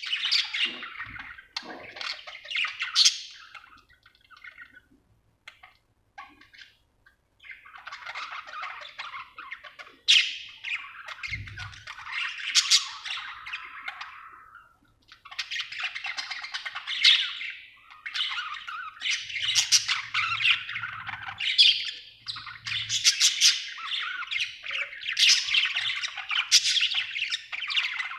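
Budgerigar chirping and warbling in busy bursts, the contented chatter of a happy budgie. It falls mostly quiet for a few seconds early on, then chatters almost without pause.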